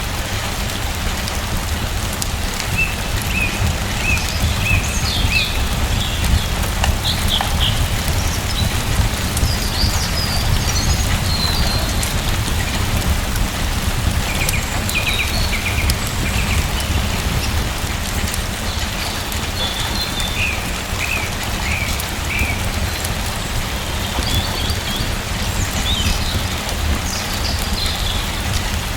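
Steady rain falling over a low, even rumble, with small birds chirping in short scattered calls throughout.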